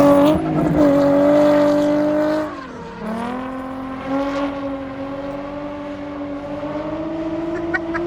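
A car engine held at high revs, dropping back about two and a half seconds in, then climbing again and holding steady.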